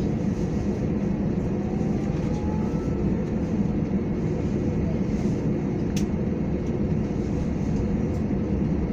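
Airbus A321 cabin noise while taxiing after landing: a steady low rumble of the engines at idle and the rolling of the aircraft, with a single sharp click about six seconds in.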